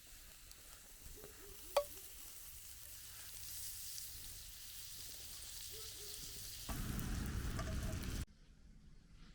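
Food frying in a pan with a steady sizzle that builds, plus a sharp clink about two seconds in and a few lighter ones. It gets louder near the end, then cuts off abruptly.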